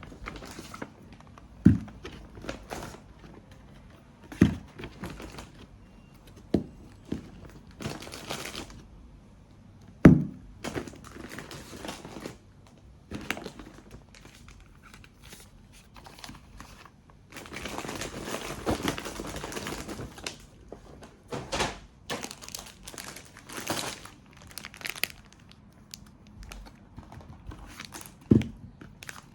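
Packaging being handled and torn open, crinkling, with a few sharp knocks and a longer spell of steady rustling a little past the middle.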